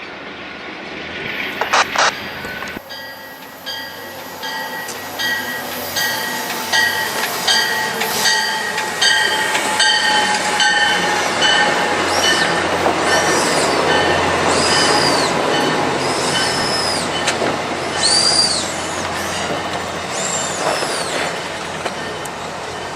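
Train rolling past: wheels clicking over rail joints at a steady rhythm, then high wheel squeal rising and falling in pitch through the second half.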